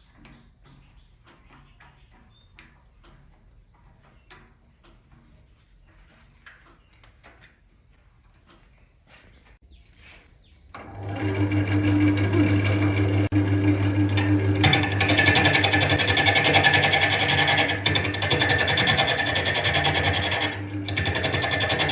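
Faint handling clicks, then a wood lathe's motor starts suddenly about halfway through and runs with a steady hum. A few seconds later a loud hissing, rasping noise joins, a tool working the spinning wood.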